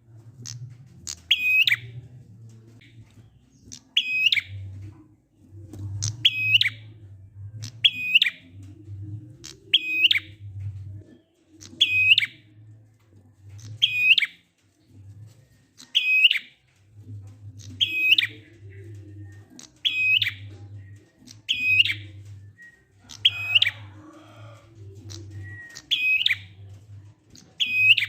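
Prenjak (prinia) calling: a short, sharp, high call repeated at an even pace about every two seconds, the ngalun call used as a lure to make silent prenjak sing. A low hum pulses underneath.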